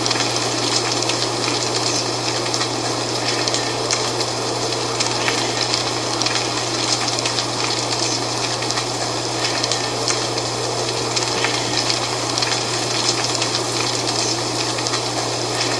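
Dry autumn leaves rustling and crackling in a steady wind, with a constant low hum underneath.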